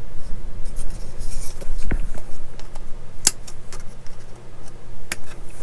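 Sprue cutters snipping a plastic model-kit part off its sprue: three sharp clicks about two, three and five seconds in, with small handling ticks between.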